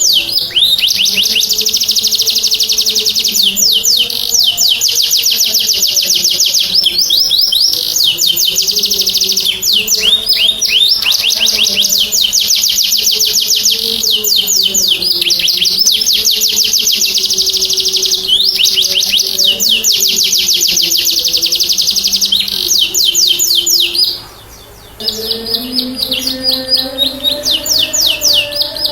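Domestic canary singing in full song: long, rapid trills and rolls that run on almost without pause, breaking off for about a second near the end.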